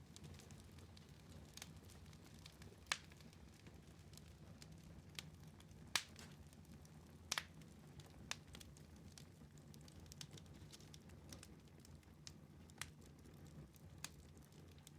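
Wood fire in a fireplace crackling quietly over a low steady rumble, with sharp pops scattered every second or two, the loudest about three and six seconds in and a quick double pop a little after seven seconds.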